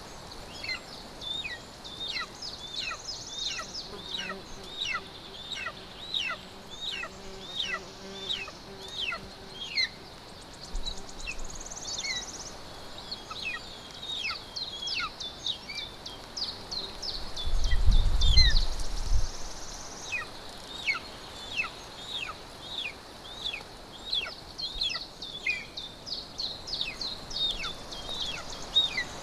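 Golden eagle chick calling with a steady string of thin, high whistles, each falling in pitch, two or three a second: begging while it is being fed. Partway through, a brief low rumble is the loudest sound.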